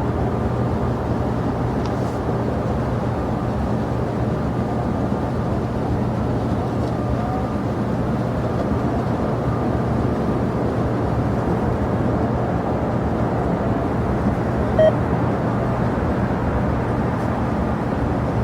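Steady, even rush of airliner jet engine noise with a constant low hum underneath, and one short blip of a tone about fifteen seconds in.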